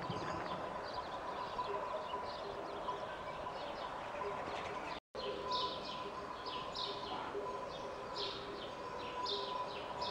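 Small birds chirping, short high calls repeated several times a second over a faint steady hum, the chirping louder and busier after a brief cut-out about halfway through.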